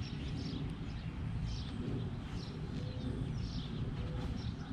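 Birds chirping, short high calls repeating about once a second, over a low steady rumble.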